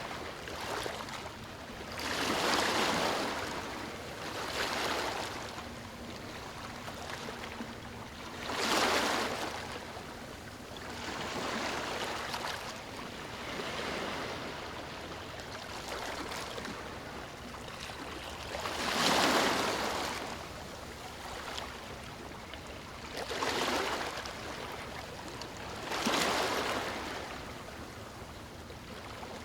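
Ocean waves breaking on a beach: repeated swells of surf that rise and fall every few seconds over a constant wash, the biggest breaks about 3, 9, 19 and 26 seconds in.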